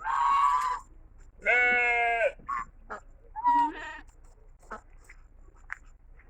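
Sheep bleating: three calls, the longest and loudest about a second and a half in, then a shorter one near the middle, followed by a few faint short clicks.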